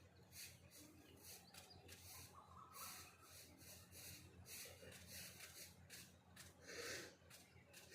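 Faint rustling, scraping noise in short repeated bursts, with a few faint bird calls behind it.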